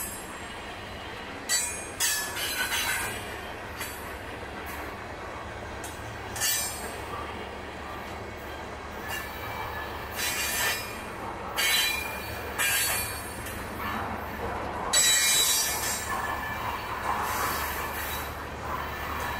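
Loaded tank cars of a slow-moving freight train rolling past, with a steady low rumble. High-pitched wheel squeals and screeches rise and fall every few seconds, loudest about fifteen seconds in.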